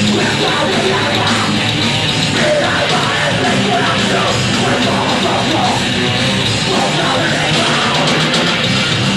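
Live heavy rock band playing loud, distorted guitars and drums with shouted vocals, recorded as a dense, steady wall of sound.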